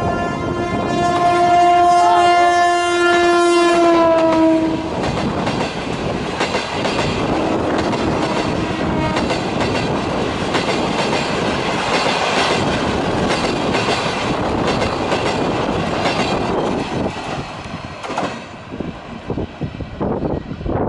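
GT22 diesel-electric locomotive sounding a long horn blast, a chord of several notes that dips in pitch at the end as the locomotive passes. Its passenger coaches then rattle past with wheels clattering over the rail joints, fading out near the end.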